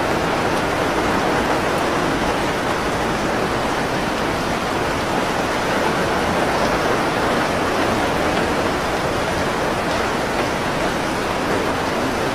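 Loud, steady water noise that does not let up.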